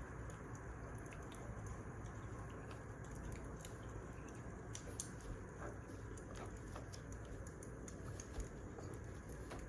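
Burning firewood crackling: scattered sharp pops and snaps over a steady low rush of the fire.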